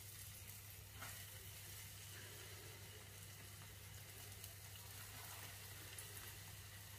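Faint sizzling of syrniki (cottage-cheese patties) frying in oil in a hot frying pan, over a low steady hum.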